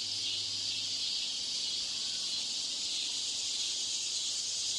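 Steady high hiss with a low hum underneath: the background noise laid over a TOEIC listening recording to imitate a poor exam-hall broadcast.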